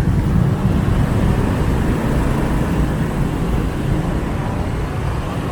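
Riding along in busy motorbike traffic: a steady low drone of the motorbike's engine and road noise, with the wash of surrounding scooter and car traffic.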